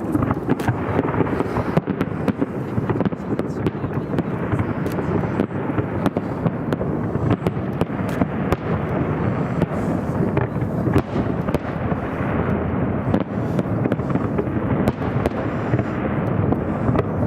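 Fireworks display going off without a break: a dense run of bangs and crackling from shells bursting, echoing across the river.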